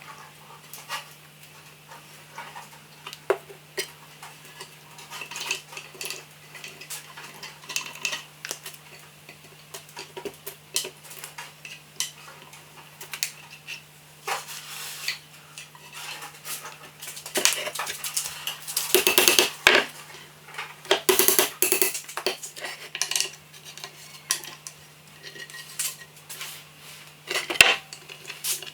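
Repeated light metallic clinks and knocks of hand tools and small metal parts being handled on a workbench. The clatter grows denser and louder from about 17 to 22 seconds in. A steady low hum runs beneath it.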